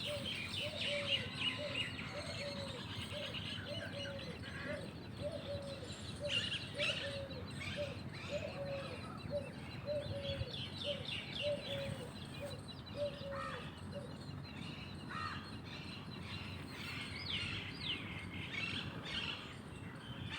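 Small birds chirping and twittering, with a short low call repeated about twice a second that stops about two-thirds of the way through.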